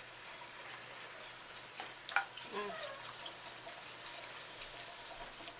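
Faint wet eating and handling sounds from a seafood boil: sauce-coated shrimp and crab being picked at and chewed by hand, with small clicks and crackles, a few sharper ones about two seconds in.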